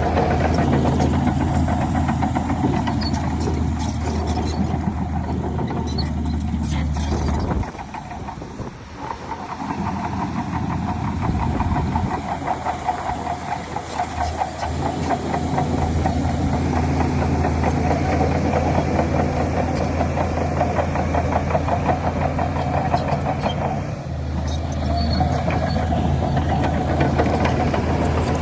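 Heavy diesel engine of a crawler dozer running, with a fast, even pulsing. The level drops for a few seconds about eight seconds in, then picks back up.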